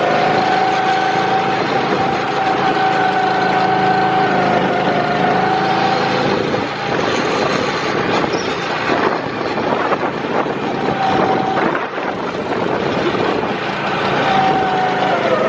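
Go-kart's small engine running at speed, its whine rising and falling a little with the throttle. About six seconds in it turns rougher and noisier for several seconds before the steady whine returns.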